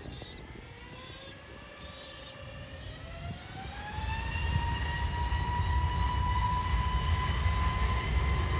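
Jet airliner engines whining: the pitch rises over a couple of seconds and then holds steady, while a low rumble builds and the sound grows louder.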